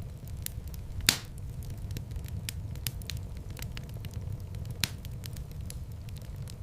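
Wood fire in a fireplace crackling, with a steady low rumble of flames under frequent small snaps and two louder pops, about a second in and near five seconds in.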